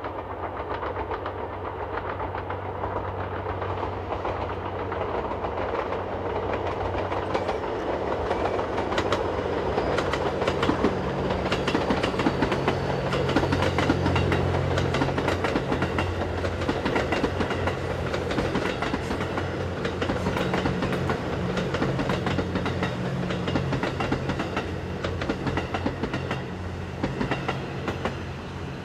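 JR West 87 series Twilight Express Mizukaze hybrid diesel-electric train running past at close range: a steady low hum from its diesel generator engines under the running noise, with wheels clicking over rail joints. It grows louder about halfway through as the cars go by, then eases off slightly.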